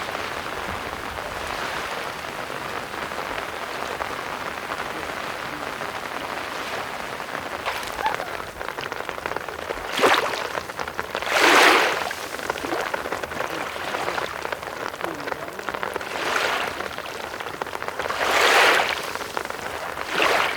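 Steady hiss of rain falling, with a few louder rushes of noise, each about a second long, swelling and fading several times in the second half.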